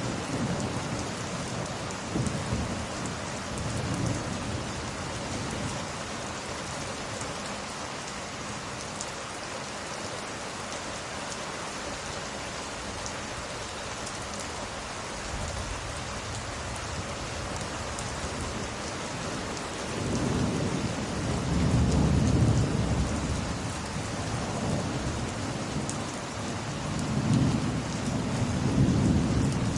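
Steady heavy rain with rolling thunder that rumbles low and swells louder several times, most strongly about two-thirds of the way through and again near the end.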